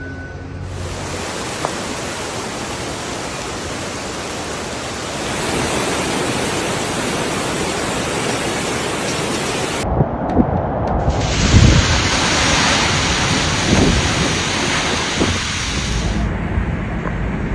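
Typhoon rain and wind: a loud, steady rushing hiss, changing abruptly about ten and sixteen seconds in, with low gusty rumbles in the middle part.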